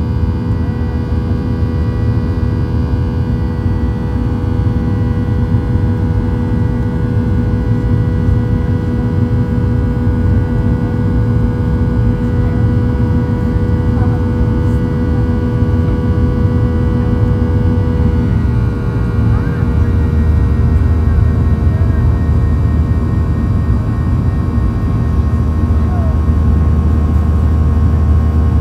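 Boeing 737-800's CFM56 jet engines heard from inside the cabin: a loud steady rumble with several whining tones, which shift in pitch about two-thirds of the way through.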